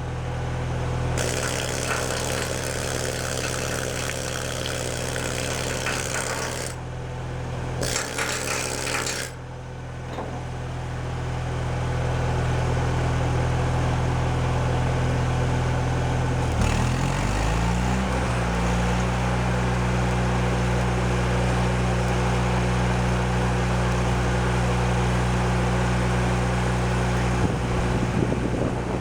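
Engine-driven Miller Trailblazer welder-generator running steadily, with stretches of arc-welding crackle and hiss. About sixteen seconds in, the engine speeds up over a couple of seconds and then holds the higher speed.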